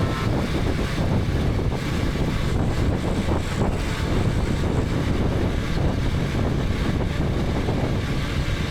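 KTM 250 Adventure's single-cylinder engine running steadily while under way, with wind rushing over the helmet-camera microphone.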